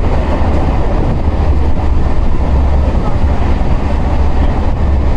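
Passenger train running, with a loud, steady rumble.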